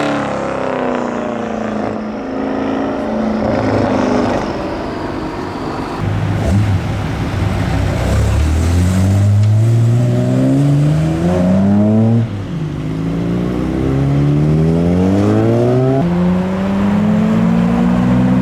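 Car engine accelerating hard through the gears, its pitch climbing and dropping sharply at upshifts about twelve and sixteen seconds in, after a falling pitch near the start.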